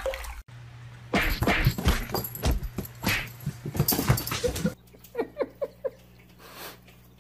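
A person laughing, then a quick run of about five short, rising yips from an animal.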